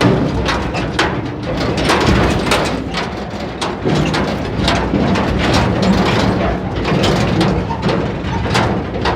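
Tractor engine running steadily, with frequent irregular knocks and rattles over it.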